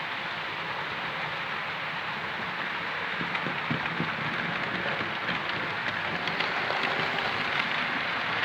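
Model railway locomotive running along the track: a steady rolling whir of wheels and motor that grows gradually louder, with small clicks over rail joints from about three seconds in.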